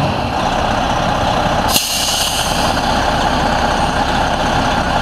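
Freightliner truck's Detroit Diesel Series 60 14-litre inline-six idling steadily, with a short burst of air hiss about two seconds in.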